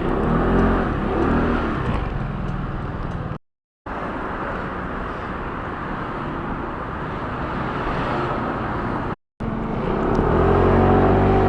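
Motor vehicle engine and road noise, with the pitch of the engine gliding up and down near the start and again near the end as it speeds up. The sound cuts out to silence twice: for about half a second a third of the way in, and very briefly later.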